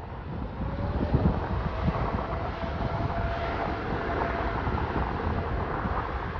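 Jet airliner's engines running as it passes, a broad rush with a faint whine that rises slightly in pitch, while wind buffets the microphone.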